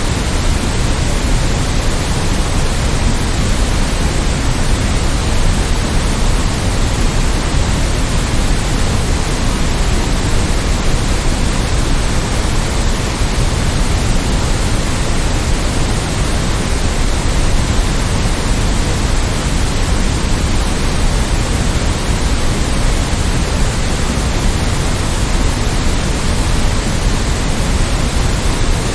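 Steady, unchanging white noise: an even hiss spread from deep bass to high treble, with a little extra weight at the low end.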